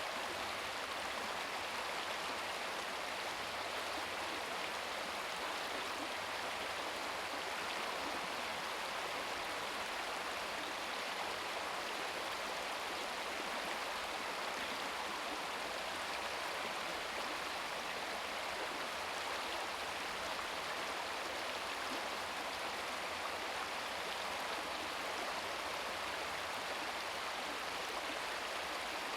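Small stream babbling steadily over rocks, a continuous even rush of water.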